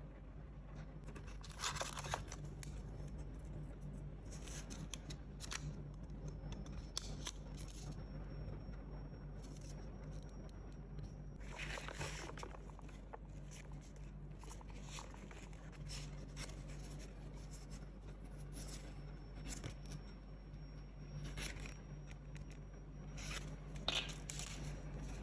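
Hands handling product packaging: intermittent rustling and scraping, with louder handling about two seconds in, around twelve seconds in and near the end, over a faint steady low hum.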